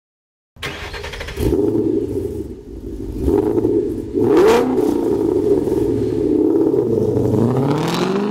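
Car engine running and revving, starting about half a second in, with a quick rev about four seconds in and the revs dropping and then climbing again near the end.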